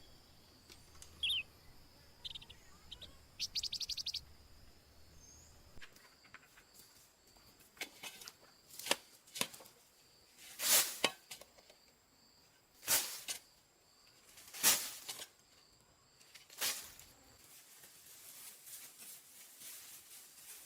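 Forest ambience: a steady high insect drone and a few short bird calls, one a quick rapid trill. Then comes a run of six loud, sharp strikes, about one every two seconds.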